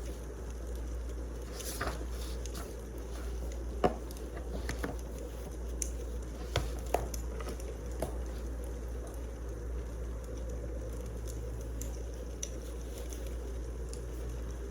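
Wood fire burning, crackling with irregular sharp pops over a steady low rumble; the loudest pop comes about four seconds in, with two more close together near seven seconds.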